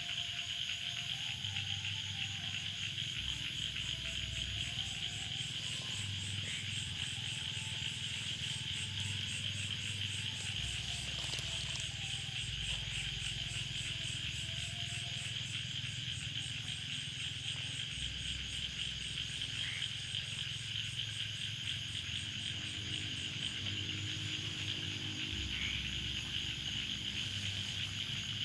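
A steady, high-pitched insect chorus of cicadas or crickets buzzing without a break, over faint background music whose low bass notes change every second or two.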